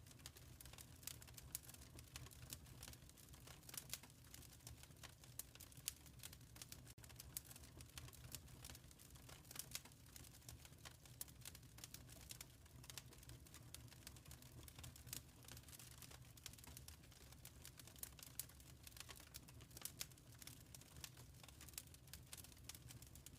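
Wood fire crackling softly in a fireplace: frequent irregular small pops and crackles over a low steady rumble.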